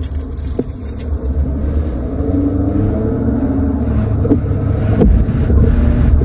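Car driving, heard from inside the cabin: a steady low rumble of road and engine noise that grows somewhat louder, with a few faint clicks.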